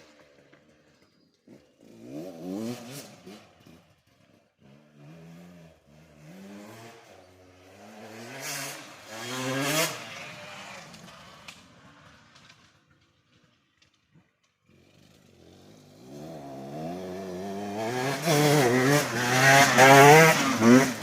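Husqvarna 150 two-stroke dirt bike engine revving hard and shifting through the gears in several runs, the pitch climbing and dropping. It fades to near silence midway, then builds back up to its loudest near the end.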